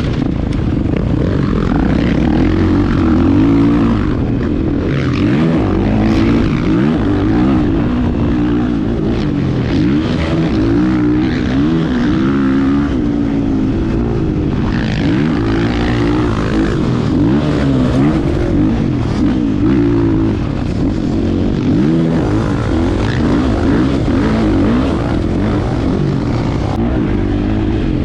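Husqvarna FE 501 single-cylinder four-stroke dirt bike engine being ridden hard, its pitch rising and falling over and over with throttle and gear changes.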